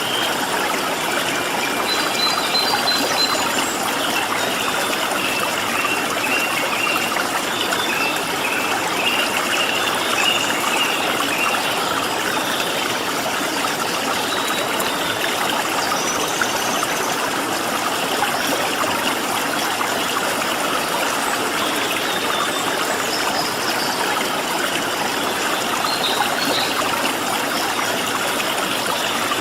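Stream water flowing steadily. Small wild birds chirp in short high phrases over it, most often in the first dozen seconds and again briefly near the middle and toward the end.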